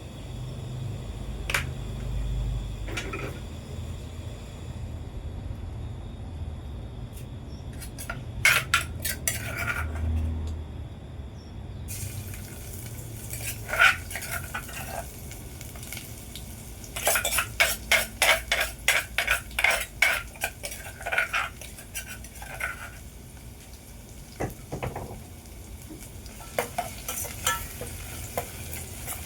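A utensil stirring food frying in a pan, with scattered clinks against the pan and a run of quick strokes about two-thirds of the way through.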